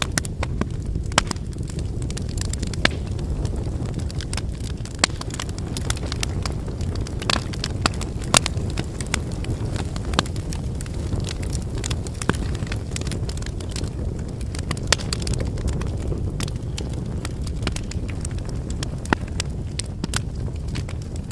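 Wood bonfire burning: a steady low rush of flames with irregular crackling and popping of the firewood, and several sharper, louder snaps.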